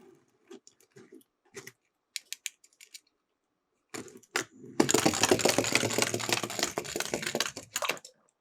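Light clicks and taps of small die-cast toy cars being handled, then about five seconds in a dense clattering rattle lasting about three seconds as the miniature cars roll down a slope track.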